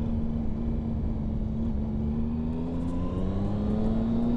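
Triumph Sprint ST 1050's three-cylinder engine pulling steadily on the road, its note rising slowly as the bike gathers speed, over a low rush of wind.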